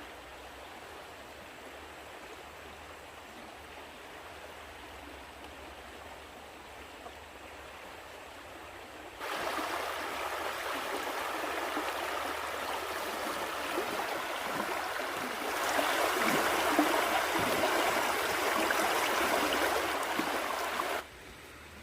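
Running stream water, a steady rushing. It is faint at first, jumps abruptly louder about nine seconds in, grows louder again near sixteen seconds, and cuts off suddenly about a second before the end.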